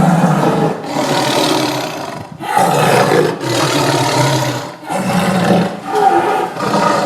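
Tiger roaring and growling: about six rough roars in quick succession with brief breaks between them.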